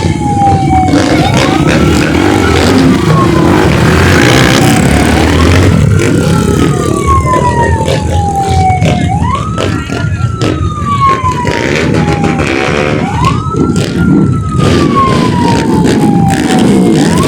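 Siren wailing in slow cycles: a quick rise, then a long fall, about every four seconds. Under it runs a loud, steady low rumble.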